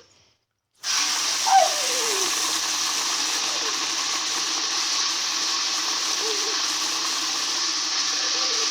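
Pit bull whining over steady rushing water. The whines are short and fall in pitch, with the loudest one about a second and a half in and a few fainter ones after it. Everything drops out for most of the first second.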